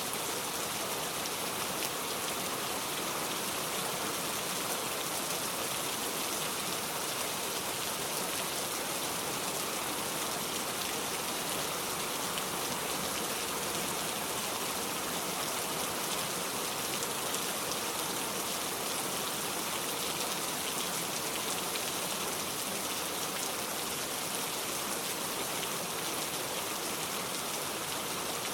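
Steady rain falling on a surface, an even hiss with dense patter of drops and no change in strength.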